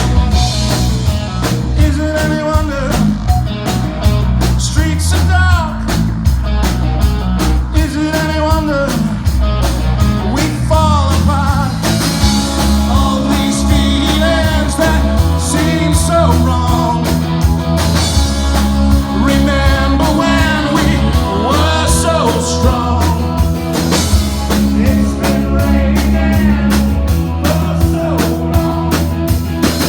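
Rock band playing a song live: a singer over electric guitar, bass and drums with a steady beat.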